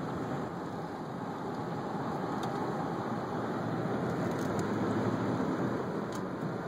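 Steady road and engine noise inside a slowly moving car, with a few faint clicks.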